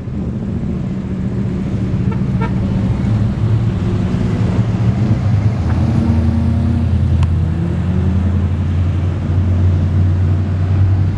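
Cars in a slow car-show cruise rolling past, their engines giving a steady low rumble. A deeper, louder engine note takes over about halfway through.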